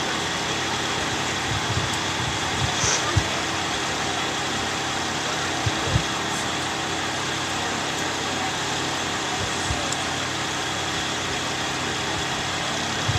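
A vehicle engine idling steadily, with a few faint knocks.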